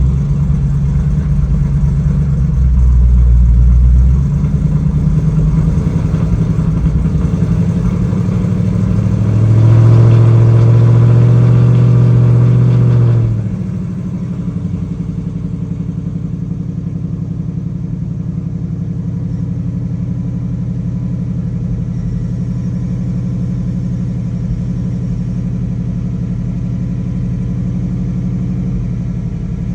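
Ford Gen 2 Coyote 5.0 V8 running. It rises to a higher, louder speed about ten seconds in, holds there for about four seconds, then drops back to a steady idle. The owner is chasing a cold start misfire on this engine.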